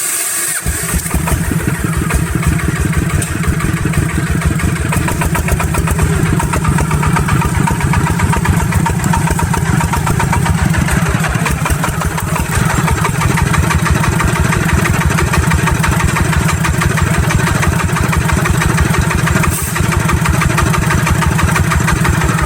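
Agricultural farm truck's engine running with a fast, steady chugging, which starts about half a second in.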